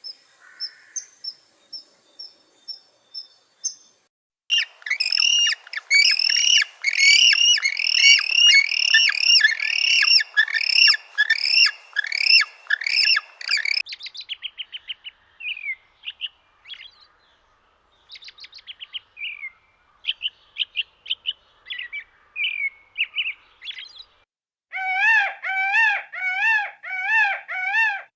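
Birds calling in a series of different calls. It opens with high, evenly spaced chirping, about three a second. A dense run of repeated chirping calls follows, then scattered sharper chirps, and near the end about five rising-and-falling calls.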